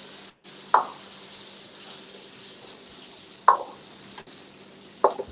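Sambal tumis chili paste sizzling in hot oil in a wok, with a metal ladle knocking against the wok three times as it is stirred. The sound drops out for a moment shortly after the start.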